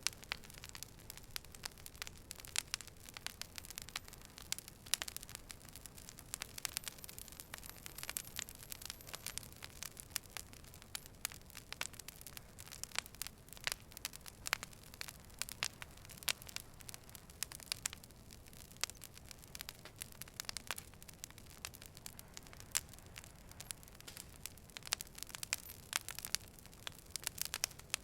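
Wood fire burning with dense, irregular crackles and pops over a soft steady hiss.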